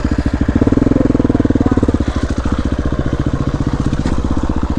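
Dirt bike engine running under throttle with a fast, even firing beat. About half a second in it pulls harder for a second and a half, then eases back a little.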